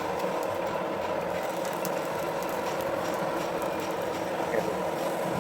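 A workshop machine running steadily with a dense mechanical whir and faint scattered ticks.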